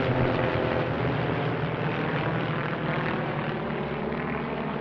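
Piston-engined propeller aircraft, a formation of Van's RV-8s, droning overhead in an aerobatic display, the sound easing slightly as they pass.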